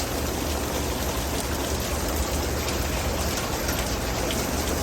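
Heavy rain pouring down in a thunderstorm, a steady hiss with scattered drop hits. Gusty wind rumbles low on the microphone.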